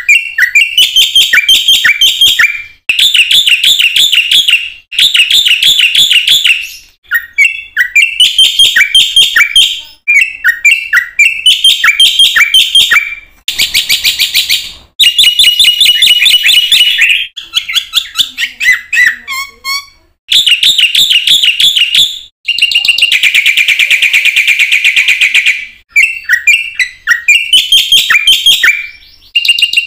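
Black-winged myna (jalak putih) singing loudly in full, varied song: phrases of rapid, high chirps and whistles about two seconds long, with short pauses between them, and one longer, buzzier run about two-thirds of the way through.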